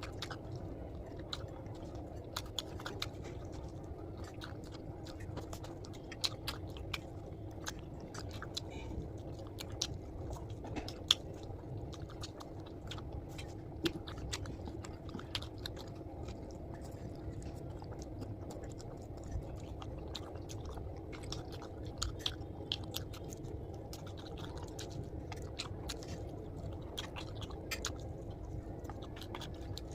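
A person chewing and biting food close to the microphone: many irregular small wet clicks and crunches over a faint steady hum.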